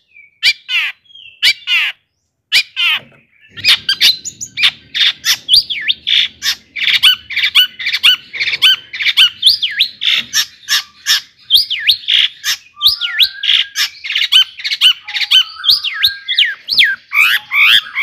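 Long-tailed shrike (cendet) singing harsh squawks and sharp chirps: a few separate notes at first, then a fast, unbroken run of varied notes from about three and a half seconds in.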